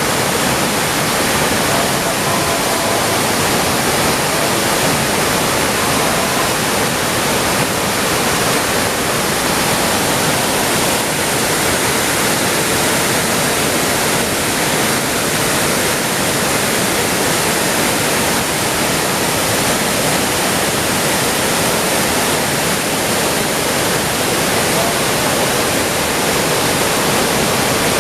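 Waterfall swollen after rain, pouring with a loud, steady rush of falling water.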